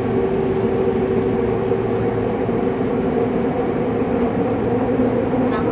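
Cabin noise of a Saitama Railway 2000 series electric train running underground: a steady rumble with a constant hum and no sudden events.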